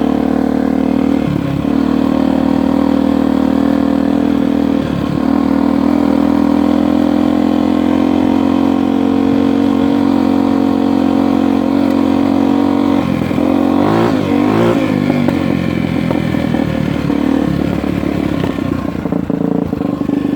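Dirt bike engine running under way at a steady pitch, with brief dips and rises as the throttle or gear changes. About two-thirds through there is a stretch where the pitch wavers.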